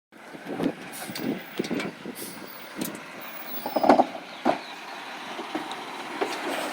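Recycling truck at work: a run of knocks and clanks over a steady background rumble, with the loudest bangs about four seconds in.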